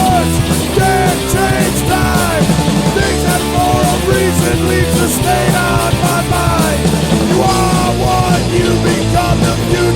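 Skinhead rock 'n' roll band playing a loud punk rock song, with a bending melody line over the full band.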